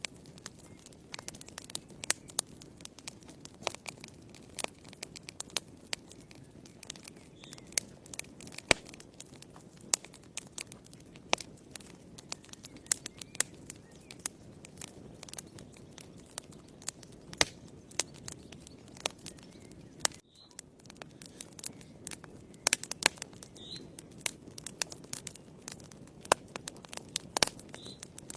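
Wood fire crackling in a fireplace: irregular sharp pops and snaps over a low steady rustle of burning logs, with a brief lull about twenty seconds in.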